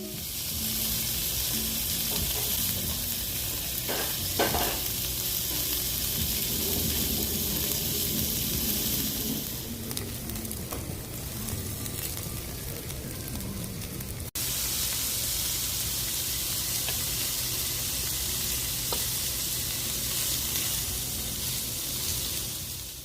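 Wood-fire grilled meat sizzling steadily, a continuous frying hiss, with a couple of light knocks about four seconds in. It breaks off for an instant about fourteen seconds in, then the same sizzling carries on.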